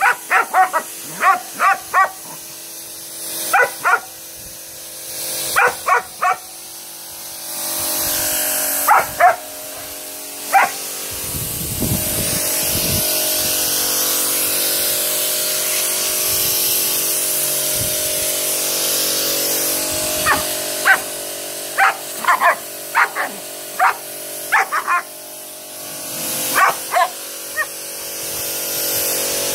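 German Shepherd barking repeatedly in short runs of barks at a running pressure washer. Under the barks the washer keeps up a steady hum and a spray hiss, louder through the middle stretch, where the barking thins out.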